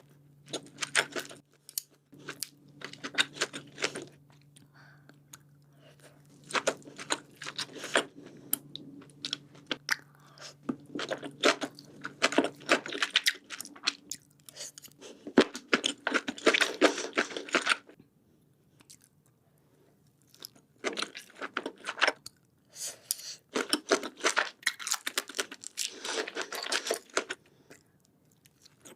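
Close-miked eating sounds of sushi being chewed, with quick clicky mouth noises in bursts and a pause of a few seconds about two-thirds of the way in.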